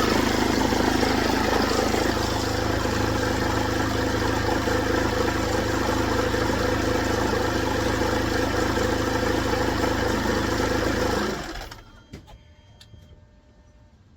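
Mercedes W204 engine idling steadily with its belt drive running, then switched off about three quarters of the way through, followed by a few faint clicks. The mechanic judges from the running engine that the alternator freewheel pulley must also be replaced.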